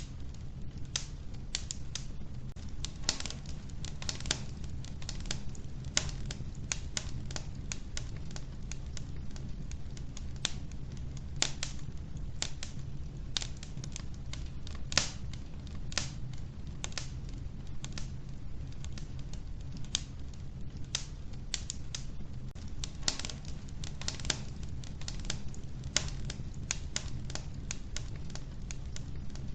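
Wood fire burning in a wood stove, crackling with frequent sharp, irregular pops over a steady low rumble.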